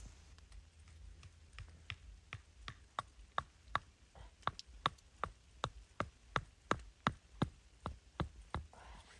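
A steady series of short, sharp taps or clicks, about two to three a second, over a low rumble.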